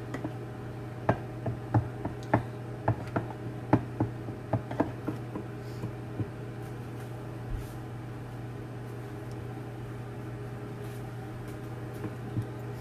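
A microwave oven runs with a steady low hum. In the first half, a dozen or so sharp, irregular knocks and clicks, like a utensil and dishes being handled, then only the hum.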